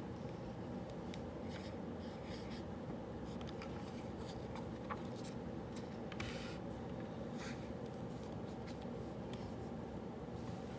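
Writing on paper: short scratchy strokes at irregular intervals over a steady low room hum.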